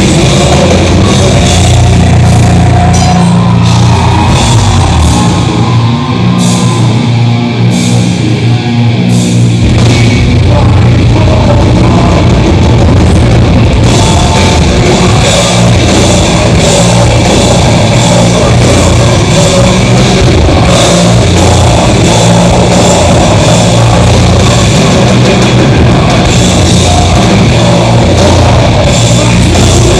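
Heavy metal band playing live and loud, with drum kit and distorted guitars. A few seconds in the deep bass drops away while the drums carry on, and the full band comes back in about ten seconds in.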